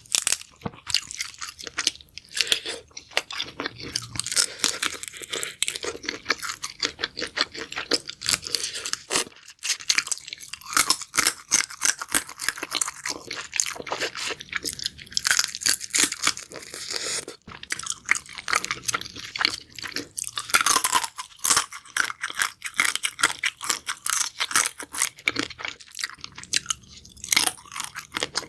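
Close-up chewing of crunchy food: a steady run of crisp crunches and crackles from biting and chewing, with no pauses longer than a moment.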